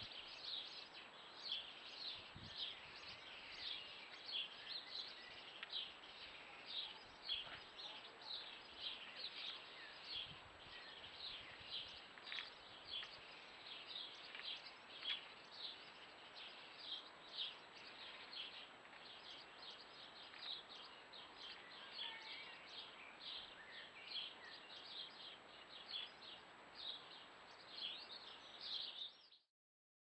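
Small garden birds chirping: a steady run of short, high chirps, two or three a second, that cuts off suddenly near the end.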